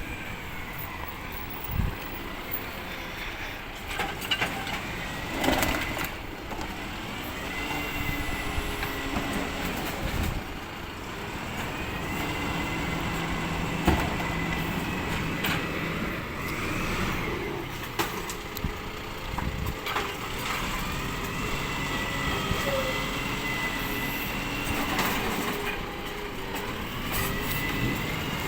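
Recycling truck running, with a high steady whine that rises and falls at times and several knocks and clatters.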